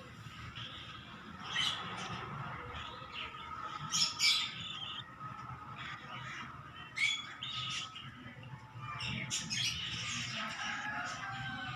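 Cockatiel giving short, sharp chirps and squawks, several separate calls with a longer run of them near the end.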